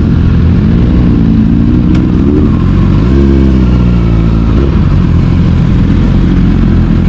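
Sportbike engine under way, its revs climbing and dropping twice, over heavy wind rumble on the microphone.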